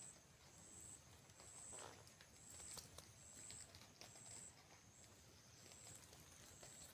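Near silence: faint outdoor ambience with a faint, high-pitched chirp repeating about once a second, and a few soft clicks or rustles about two to three seconds in.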